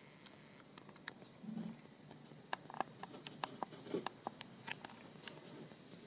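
Small birds, tits, pecking and tapping at seeds on a feeding spot: an irregular run of sharp light taps and clicks, few at first and coming thick and fast in the second half, with a couple of soft low thuds.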